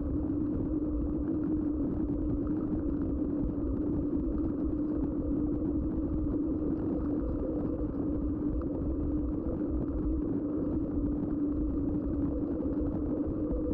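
Steady riding noise from a mountain bike's knobby Schwalbe tyres rolling on a hard surface. It is a constant hum with a low rumble of wind on the action camera's microphone.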